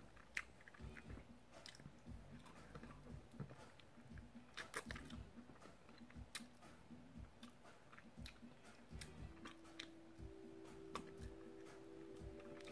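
Faint close-up mouth sounds of a man chewing and gnawing meat off a chicken wing, with irregular small smacks and clicks.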